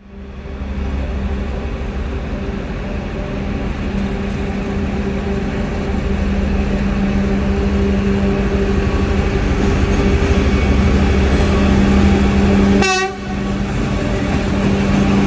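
2TE25KM diesel locomotive's engines running as it hauls a freight train: a steady drone with a deep hum, growing gradually louder as it comes closer. A short horn toot sounds about 13 seconds in.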